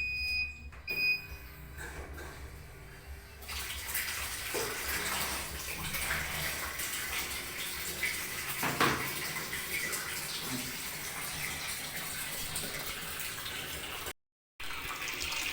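Two short electronic beeps from an automatic washing machine's control panel, then water running steadily into the machine as it fills on a test run after the inlet fault was repaired.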